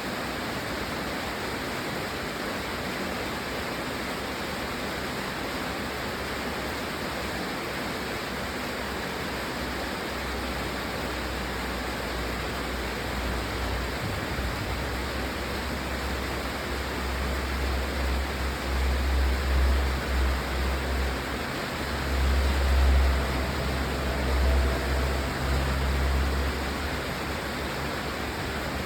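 Steady rain, an even hiss. A deep low rumble builds about a third of the way in, swells to its loudest in the second half, then fades away near the end.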